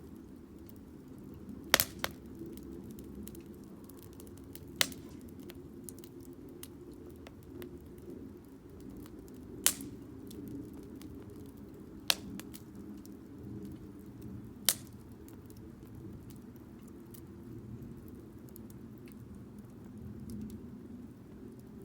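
Firewood burning in a Solo Stove Campfire fire pit, crackling with many faint ticks and six sharp pops: two close together about two seconds in, then single pops spread through the rest, over a low steady rumble.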